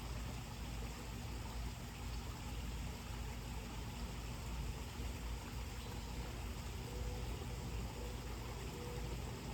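Steady outdoor background ambience: an even hiss over a low rumble with a steady hum, and no distinct events.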